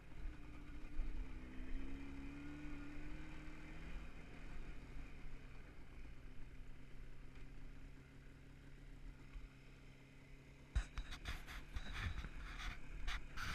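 Jawa 638 motorcycle's two-stroke twin engine running under way, its note rising a couple of seconds in and then settling lower as the bike slows. Near the end come several knocks and scrapes of a hand at the camera.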